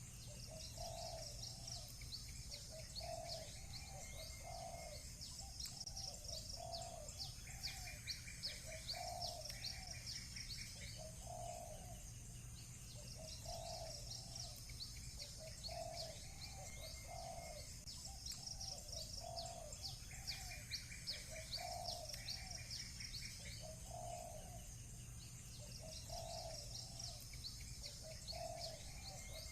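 Outdoor birdsong: a dove cooing in low, soft notes repeated about once a second, over runs of high, quick chirps from small birds. A short trill comes in twice, about eight and twenty seconds in, over a steady low background hum.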